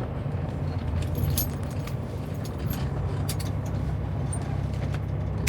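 Semi truck's diesel engine idling steadily, heard inside the cab, with scattered small clicks and jingles over it.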